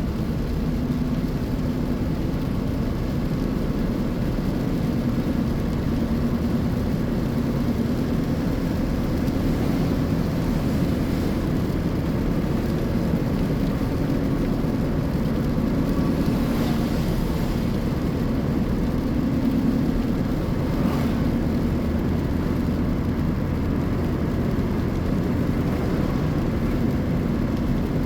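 Steady engine and tyre road noise heard inside a car's cabin while driving, a low hum with a few brief swells of passing noise.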